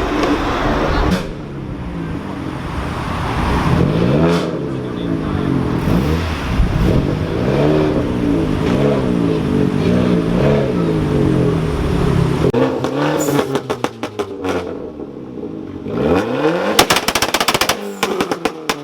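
Car engines revving, their pitch climbing and dropping again and again. Later comes another rising rev, with rapid strings of sharp pops and cracks near the end.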